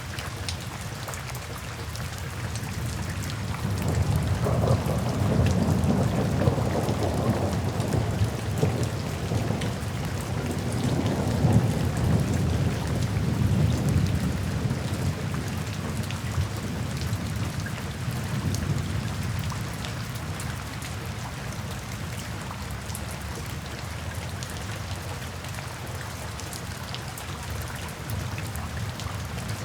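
Steady rain falling, with a long low roll of soft thunder that swells about four seconds in, rumbles for roughly ten seconds, and fades away.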